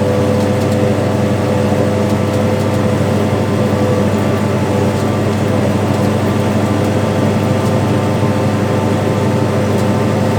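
Farm tractor's engine running steadily while pulling a planter, a constant even drone.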